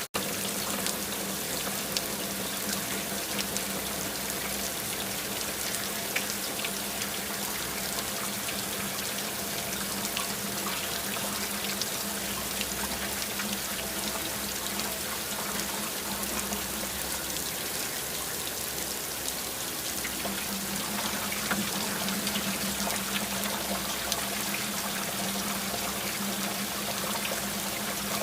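Steady rain: a continuous wash of water with many individual drops ticking through it. A low steady hum sits underneath, fading in the middle and returning near the end.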